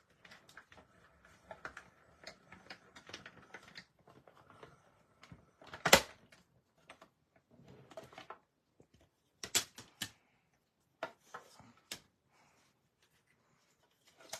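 Stampin' Up Mini Cut & Emboss die-cutting machine being hand-cranked, feeding a die-and-plate sandwich through with quick, dense clicking. About six seconds in comes one loud sharp click, followed by scattered clicks and knocks.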